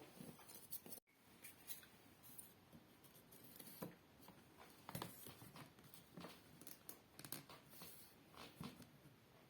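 Faint, scattered small clicks and rustles of hands working with a hot-glue gun and cut panel trim pieces, close to near silence.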